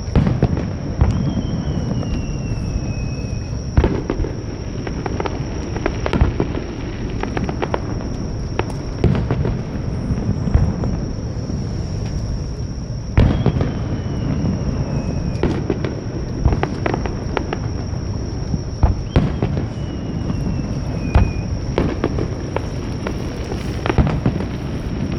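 Fireworks bursting overhead: repeated bangs and crackling over a low rumble. Three times a whistling shell gives a falling whistle that ends in a sharp bang.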